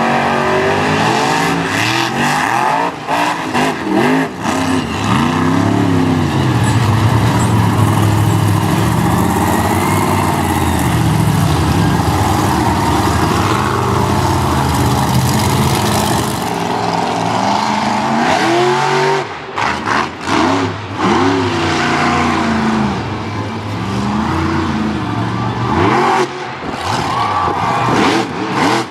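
XTERMIGATOR monster truck's engine revving hard and loud, its pitch climbing and falling again and again under the throttle. A few sharp bangs cut through around twenty seconds in and again near the end.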